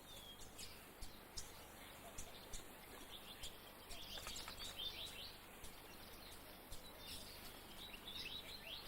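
Small birds chirping: many short, high, falling chirps from several birds, quiet, in clusters about four seconds in and again near the end.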